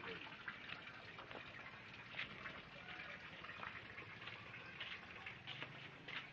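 Water running and splashing, with irregular drips and spatters over a steady low rush.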